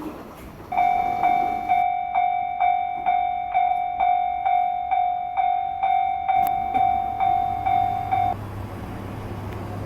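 Japanese railroad level-crossing warning bell ringing at one fixed pitch, about two strikes a second, each strike fading. It stops near the end, while the low, steady rumble of the train running comes up underneath.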